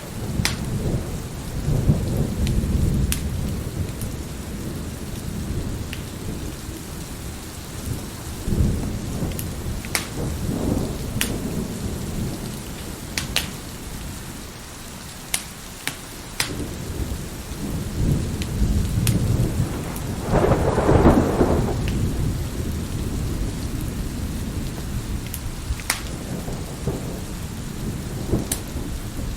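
Wood fire crackling with scattered sharp pops over steady heavy rain, with rolling thunder; the biggest rumble of thunder swells about two-thirds of the way through.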